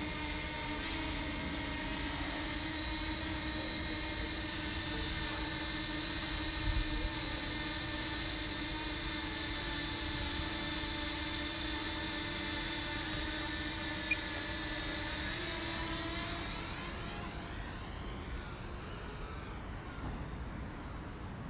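DJI Mini 2 drone's propellers humming at a steady pitch, with wind rumbling on the microphone. A little after three-quarters of the way through, the hum turns duller and quieter and takes on a sweeping, phasing quality.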